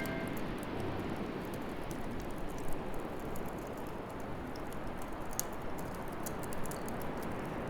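Wood bonfire burning with a steady hiss and frequent irregular sharp crackles and pops.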